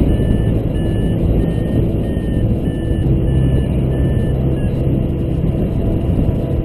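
Strong wind rushing over the microphone during a paraglider flight. Short high beeps at two alternating pitches repeat at an even pace of a little over one a second.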